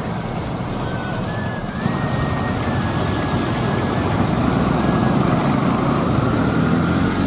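Heavy rain falling: a steady, even rushing noise.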